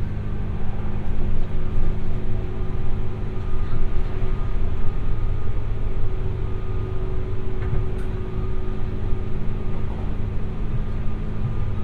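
Running noise of a 201 series chopper-controlled electric multiple unit's motor car, heard from inside the passenger cabin. A steady low rumble of wheels on rail mixes with a constant hum of several steady tones, and there are a few faint clicks.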